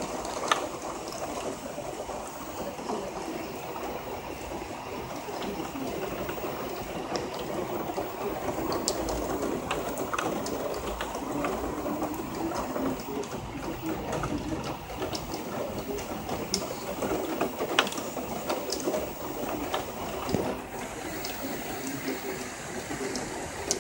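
Heavy rain pouring steadily in a thunderstorm downpour, with scattered sharp ticks through it.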